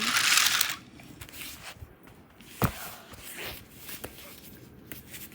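Light handling and rustling noises with one sharp click about two and a half seconds in, after a short breathy hiss at the start.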